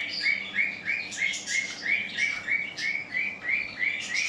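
Caged birds chirping: one bird repeats a short chirp about three times a second, while others call more irregularly over it.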